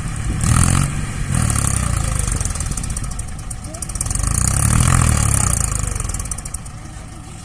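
Diesel engine of heavy farm or construction machinery running, its rumble swelling louder twice, around the first second and again about four to six seconds in, with a high rattling hiss on top.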